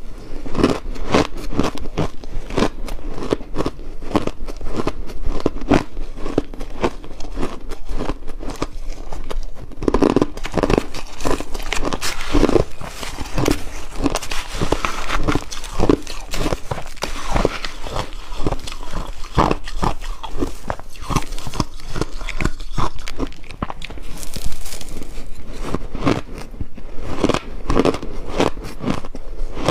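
Ice being bitten and chewed: a steady run of crisp crunches and cracks, several a second.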